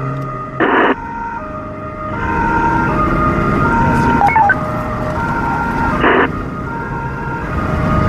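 Italian police car's two-tone siren, stepping back and forth between two pitches. It is broken by two short bursts of hiss, a little under a second in and about six seconds in.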